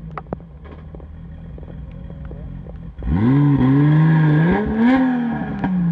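Rally car engine running low with a few sharp clicks, then revved hard about three seconds in, its pitch climbing in steps before easing off near the end.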